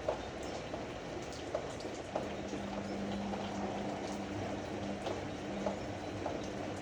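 Ariston AML125 washer-dryer running: water sloshing in the turning drum with scattered small clicks, and a steady motor hum that comes in about two seconds in.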